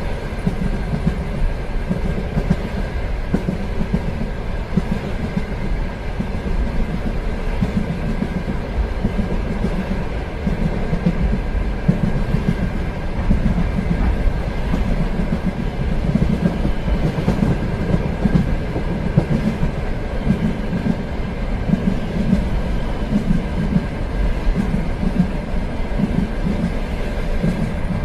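Train running steadily along the rails: a continuous even rumble with a faint steady tone above it.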